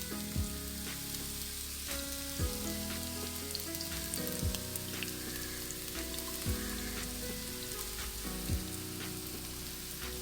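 Sliced onion sizzling as it fries in hot oil in a pan, with whole cardamom and cinnamon already in the oil. Background music plays over it, with held notes and a soft low beat about every two seconds.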